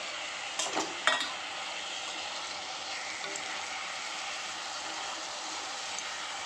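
Onion-tomato masala sizzling in oil in an iron kadai while peeled boiled eggs are stirred in with a steel spoon. A couple of loud clatters of the spoon against the pan come about a second in, then the steady frying sizzle goes on.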